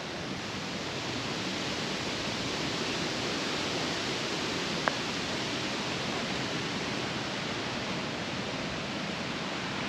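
Strong wind buffeting the microphone: a steady rushing noise that swells slightly in the middle, with a single short click about five seconds in.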